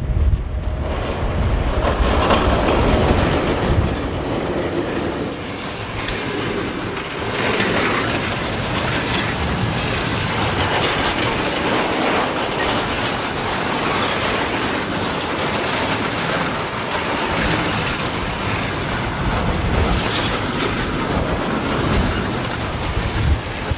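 A train passing close by, its wheels clattering over the rail joints.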